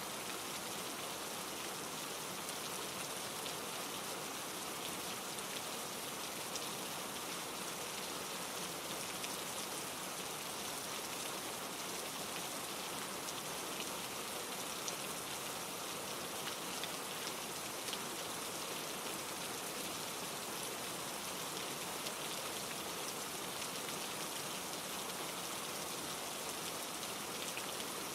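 Steady rain falling through trees, an even hiss dotted with many small drop ticks.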